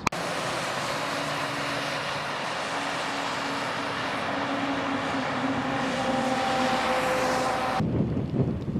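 Steady rushing road and engine noise of a moving vehicle heard from inside the cab, with faint humming tones that come and go. It cuts off suddenly near the end.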